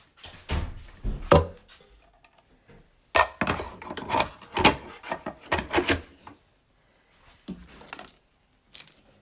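Hard objects knocked and clattered as they are handled and set down: a short burst of thunks in the first second and a half, then a longer run of knocks from about three to six seconds in.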